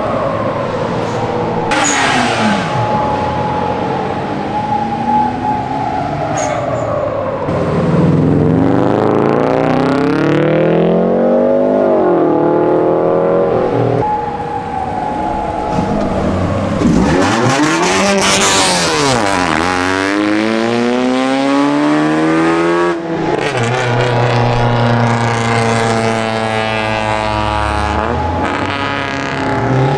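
Engines of modified cars revving and accelerating away one after another, each engine note rising and falling in pitch as the car drives past.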